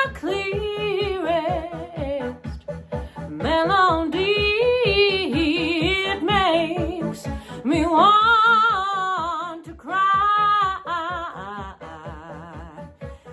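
A woman singing held, wavering wordless notes with vibrato over a synth-pop karaoke backing track with a steady beat.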